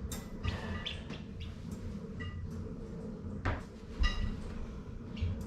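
Poultry chirping in short, separate calls, with scattered knocks and clatter over a steady low hum.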